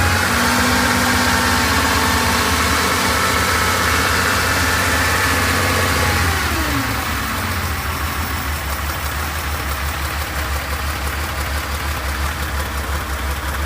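Freshly rebuilt air-cooled flat-six of a 1969 Porsche 911 2.0T running at a raised idle, then about six seconds in the revs drop and it settles into a lower, evenly pulsing idle.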